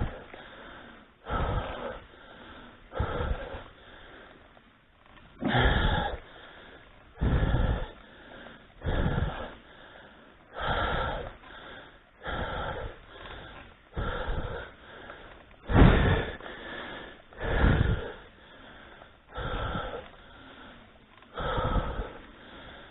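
A cyclist breathing hard, loud gasping breaths about every two seconds, out of breath from pedalling up a hill.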